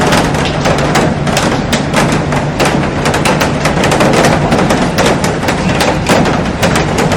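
Heavy rain falling on a glass roof and garden: a dense steady hiss full of sharp taps from drops striking the glass.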